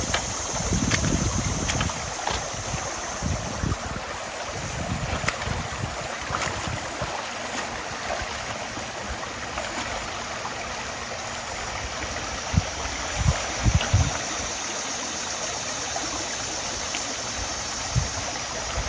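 Creek water running steadily through and around concrete culverts, with a few short low thumps about two-thirds of the way in.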